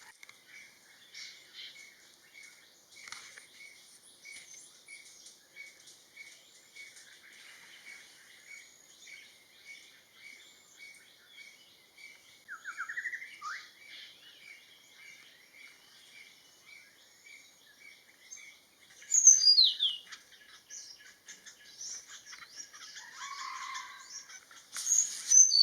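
Wild birds calling around a forest watering hole: one bird repeats a short note about twice a second throughout. A quick falling run of notes comes about halfway through, and loud falling sweeping calls come about 19 seconds in and again near the end.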